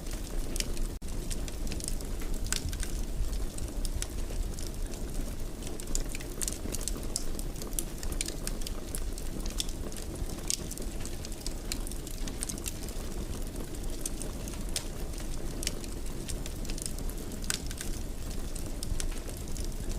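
Wood fire burning in a fireplace: irregular sharp crackles and pops over a steady low rumble of the flames, with a brief dropout about a second in.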